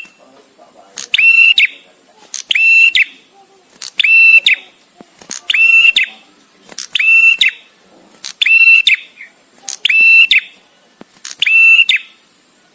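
Male prenjak tamu calling: one short, high, whistled call repeated about every second and a half, eight times. Each call is a quick rattle of clicks ending in a steady note, with a short pause between calls.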